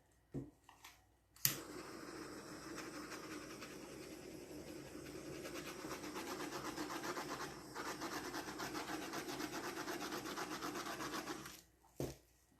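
Handheld torch clicks on and its flame hisses steadily with a fast flutter for about ten seconds, then shuts off with a click near the end. It is being played over a wet acrylic pour to pop bubbles.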